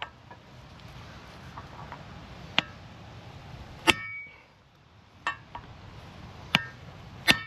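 Five sharp metallic clangs, irregularly spaced about a second to a second and a half apart, each ringing briefly, over a steady low rumble: blows of metal on metal, driving the front wheel bearing further into the knuckle.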